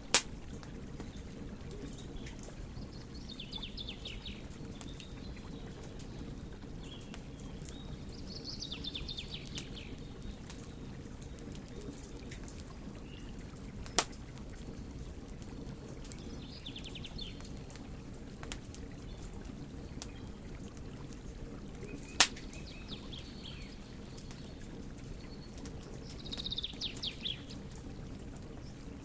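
Wood fire burning with a steady low rush and three sharp crackling pops: one right at the start, one about 14 seconds in and one about 22 seconds in. About five short, high, rapidly pulsing rasps come and go over the steady burn.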